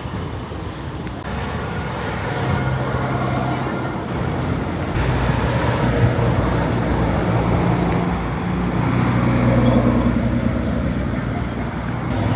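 Road traffic with heavy trucks' engines running as they pass, the engine note swelling and fading.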